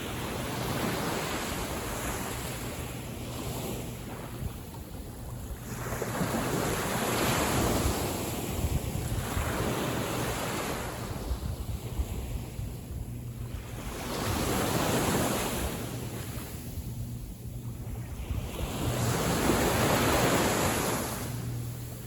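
Small waves of a calm sea breaking and washing on the beach, the surf swelling and fading about every six seconds.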